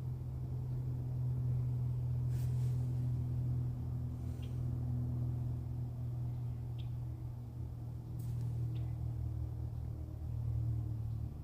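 A steady low rumble throughout, with a few faint, short high chirps from birds scattered through it.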